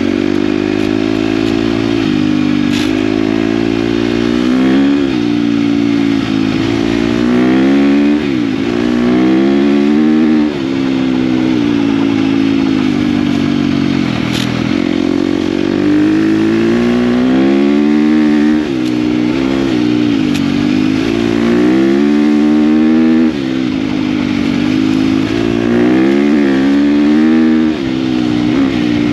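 KTM dirt bike engine under way, its pitch climbing and dropping again every couple of seconds as the throttle is worked and gears change, with short dips in level at the shifts.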